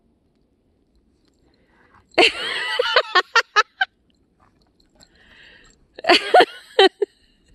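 Loud honking bird calls in two bursts: a long wavering call followed by four short ones about two seconds in, and another cluster about six seconds in.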